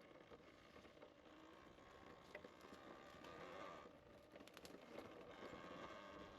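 Faint rolling noise of a bicycle riding along a dirt trail, with a few light clicks about four and a half seconds in.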